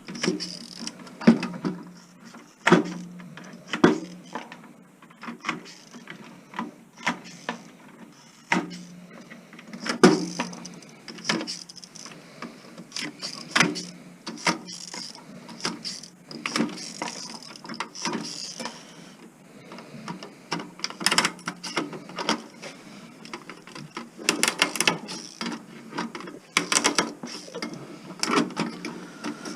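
Irregular clicks, knocks and clanks of a stereo tuner being dismantled by hand for scrap: tools and metal chassis parts striking and scraping, with a faint low hum coming and going underneath.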